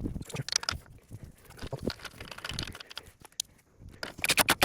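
Hands and tools working a nut and washer onto an engine mount bracket: scattered metal clicks, taps and knocks, with a quick run of louder clicks near the end.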